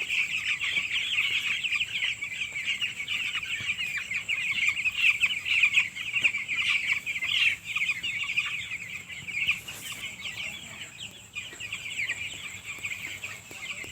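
A flock of nine-day-old chicks peeping together: a dense, continuous chorus of many short, high cheeps overlapping one another.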